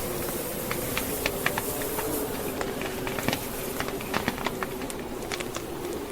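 Wood fire burning in a fireplace, crackling with frequent irregular sharp pops, over the steady blowing of a blizzard wind with a wavering low moan.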